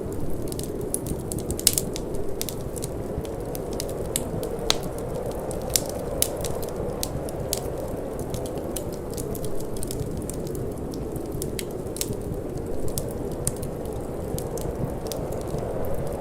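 Wood fire burning in a fireplace: irregular sharp crackles and pops, several a second, over a steady low rushing of wind.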